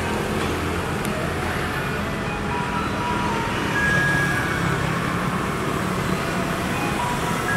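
Garbage truck engine running amid street traffic, with a melody playing faintly through the truck's loudspeaker as single held notes.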